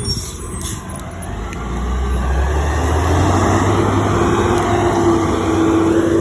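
Garbage truck's engine running and growing louder from about a second and a half in, then holding high, with a steady whine over the deep engine sound.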